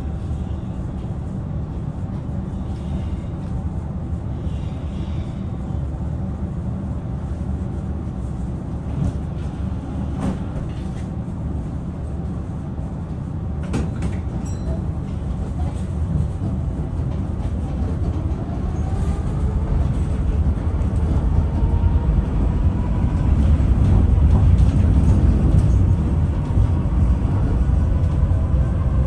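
Gothenburg tram running on its rails with a steady low rumble and a few clicks. From about two-thirds of the way in it gets louder as it picks up speed, with the electric traction motors' whine slowly rising in pitch.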